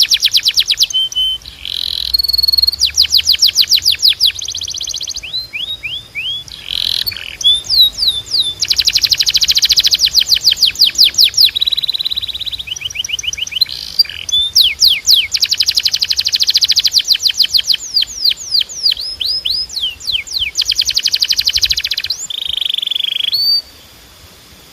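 Timbrado canary singing a long song of fast trills: runs of rapidly repeated high notes that change pace and pitch every second or two, with a few steady rolling passages, ending about a second before the close.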